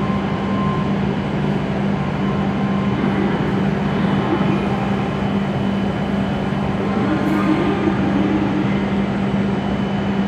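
Steady hum of E7-series Shinkansen trainsets standing powered up at the platform, with one strong steady low tone.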